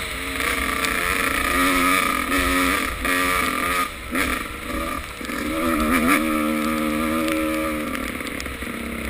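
Motocross motorcycle engines revving, the pitch repeatedly rising and dropping with the throttle and gear changes.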